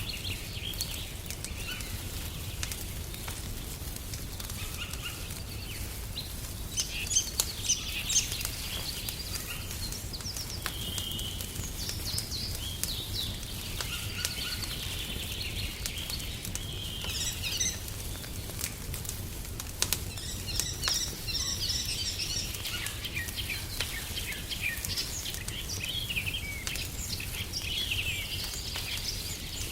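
Songbirds chirping and trilling in many short calls, over the scattered snaps and pops of a crackling wood fire and a low steady rumble. A few louder pops come about seven to eight seconds in.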